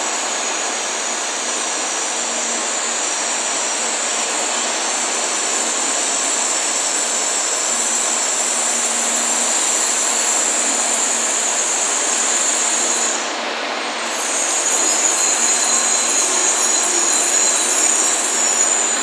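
An N700 series Shinkansen train running slowly into a station platform and braking to a stop, with a steady rolling hiss and a high-pitched squeal. The squeal breaks off briefly about two-thirds of the way through, comes back, and cuts off as the train stops.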